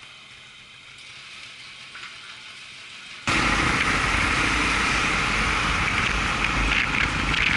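Quiet for the first three seconds, then a sudden cut to a Honda XR250 single-cylinder motorbike on the move: the engine running under a loud rush of wind.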